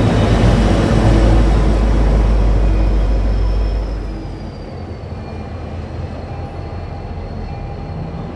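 MBTA commuter rail train passing, its wheels and cars making a loud low rumble that dies down about four seconds in to a quieter steady rumble as the train moves away.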